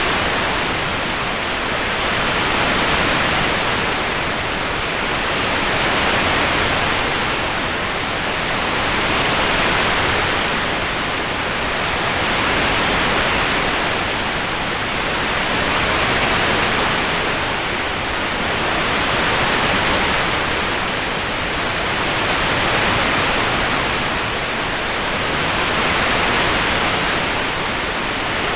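Steady rain-sound ambience: an even hiss that swells and fades gently about every three seconds.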